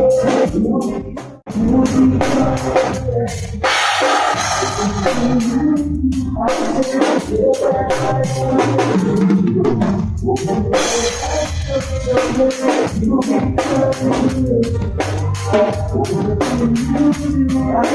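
Reggae band music with a full drum kit, kick, snare and rimshots, dropping out for a moment about a second and a half in.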